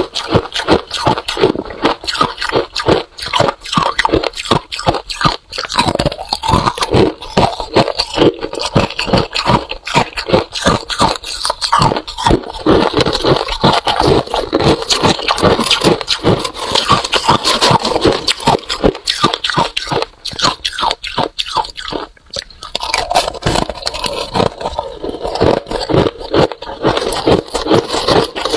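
Freezer frost being chewed close to the microphone: a dense, continuous run of rapid crunches, with a brief pause about three quarters of the way through.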